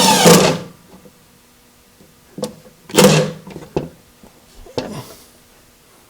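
A power drill driving a screw runs on for about half a second and stops. Then come a few short knocks and scrapes, with one brief louder burst about three seconds in.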